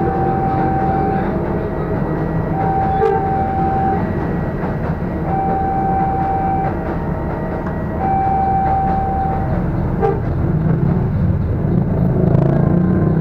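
Electric trains rumbling past a level crossing, steel wheels on rail with a couple of sharp clanks. Over it, the crossing's warning signal sounds a steady tone, about a second and a half long, four times at even spacing, then stops a few seconds before the end.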